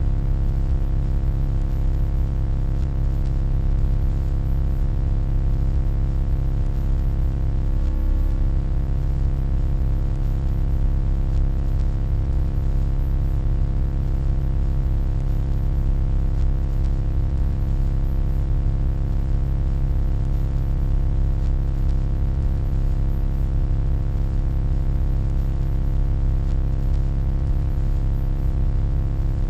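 Steady electronic hum: a deep, constant rumble with a stack of unchanging tones above it.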